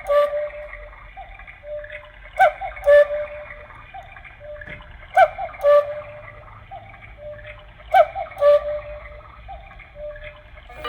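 Battery (quartz) cuckoo clock sounding its cuckoo call: four falling two-note "cuck-oo" calls, about every two and a half to three seconds. Each call comes with a sharp click from the moving bird mechanism.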